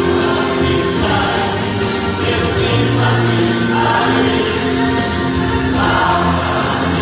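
Gospel song with a choir singing sustained lines over instrumental accompaniment.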